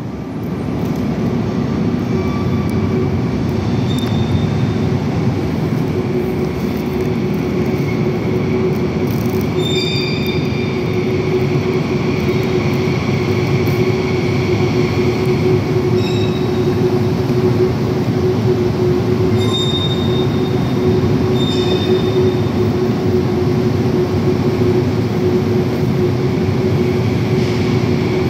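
Frecciarossa high-speed train running along the platform in an underground station hall: a steady rumble with a constant hum, broken by several short, high-pitched wheel squeals.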